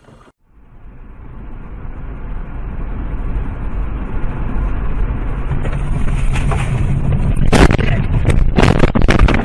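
Rumbling vehicle noise builds up, then several loud bangs and crunches come close together near the end: a road collision.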